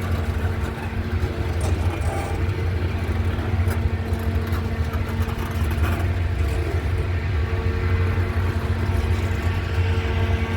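Locomotive's diesel engine running steadily as the train pulls slowly out of the siding: a low, even drone with a steady hum over it.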